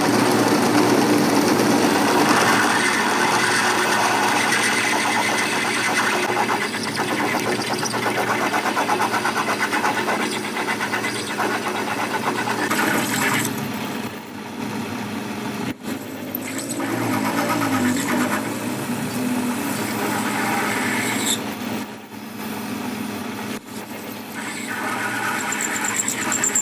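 Workshop machinery running with a steady mechanical noise that changes abruptly several times, as at edits between clips.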